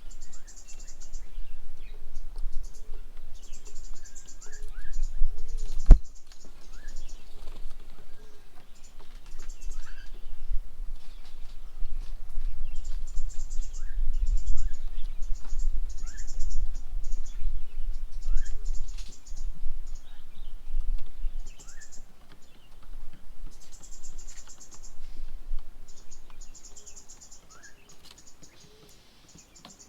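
Wild birds chirping around a garden bird table: short rising chirps again and again, among repeated high buzzy bursts, over a low rumble. A single sharp knock comes about six seconds in.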